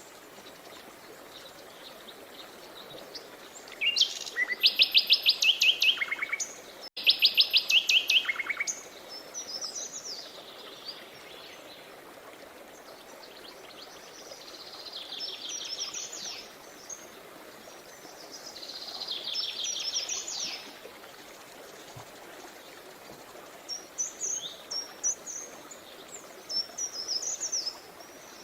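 Songbirds singing fast, rattling trills of rapid repeated notes, two loud ones close together a few seconds in, then softer trills and scattered chirps, over the steady rush of a river.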